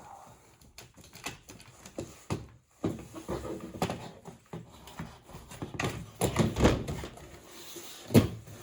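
Irregular knocks, clicks and clatter of plastic floor-scrubber parts and tools being handled, busier in the second half, with one sharp loud knock near the end.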